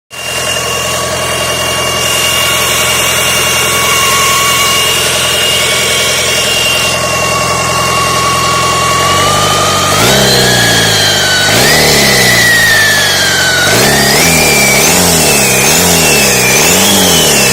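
Toyota 2L-T four-cylinder turbodiesel idling steadily with a thin high whine, then revved up and down repeatedly from about halfway through. The revs come in a quicker, even rhythm of roughly one a second near the end, and the whine rises and falls with them.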